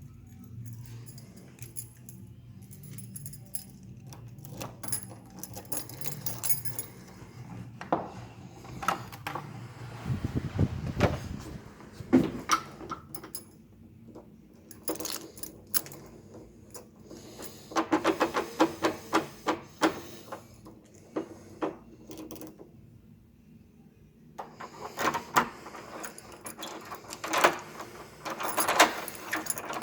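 Small metal objects jingling and clicking in irregular bursts, loudest in the second half, over a low steady hum that lasts about the first ten seconds.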